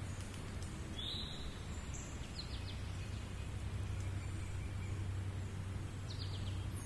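Steady background noise with a low hum throughout, and a few faint, short high chirps about one, two and a half, and six seconds in.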